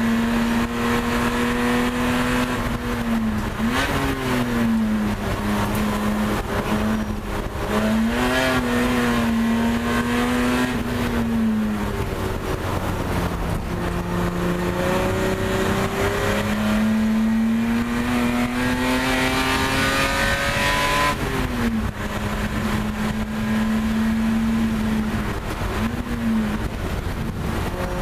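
Race car engine heard from inside the stripped cabin at speed. Its revs dip and climb back several times, and late on they rise steadily for several seconds before dropping sharply.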